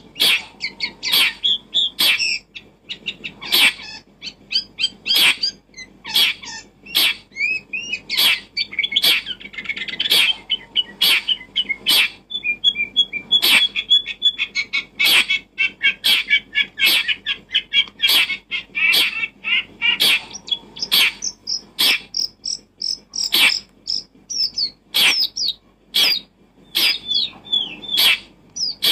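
Small birds chirping and twittering continuously, with many sharp clicks in between.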